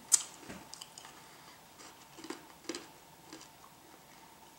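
Chewing a dried-out, rock-hard 20-year-old Twinkie: a sharp click just after the start, then a few scattered soft crunches.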